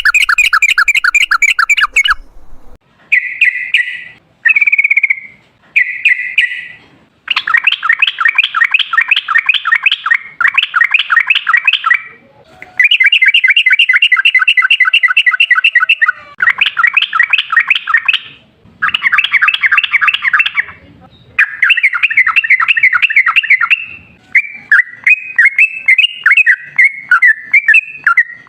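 Yellow-vented bulbul (trucukan) singing long, rapid runs of bubbly chattering notes, in bursts of one to five seconds broken by short pauses.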